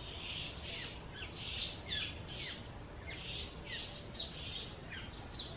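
Wild birds calling: a steady run of high chirps, a few each second, each sliding downward in pitch, over a steady low background rumble.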